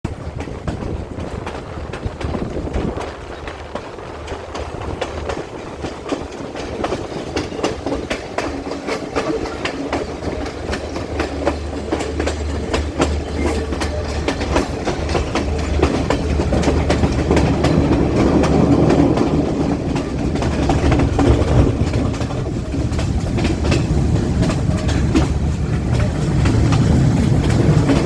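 Passenger train running, heard from on board: a steady low hum under a constant irregular clatter of wheels over the rails, growing louder about halfway through.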